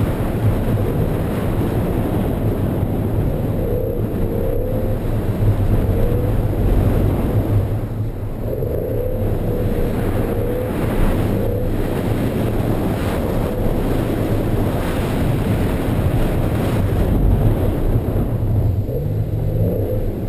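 BMW E46 M3's straight-six engine heard from inside the cabin, held high in the revs in second gear while drifting, the pitch rising and falling with the throttle. Under it a steady rush of tyres and water spray off the wet surface.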